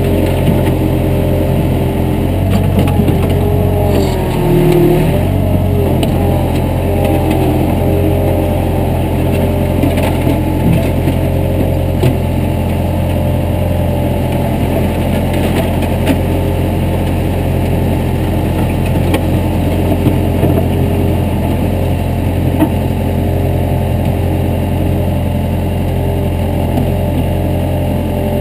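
Heavy equipment engine running steadily close up, with a brief change in pitch about four seconds in.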